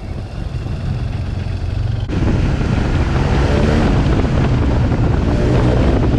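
BMW R 1200 GS boxer twin with an SC Project exhaust running steadily under way, with wind rushing over the microphone; the wind noise grows louder about two seconds in.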